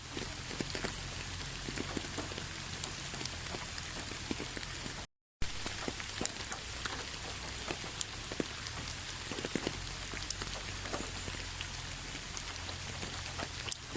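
Steady rainfall: an even hiss with many individual drops ticking sharply. The sound cuts out completely for a split second about a third of the way in, then resumes.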